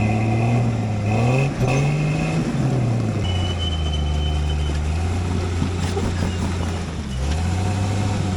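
Off-road Jeep's engine revving up and falling back twice while crawling over rocks, then holding a steady speed, with a dip and another rev near the end.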